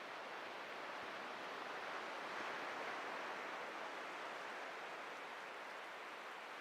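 Ocean surf washing on a beach, a steady hiss of breaking water that swells about two seconds in and slowly ebbs.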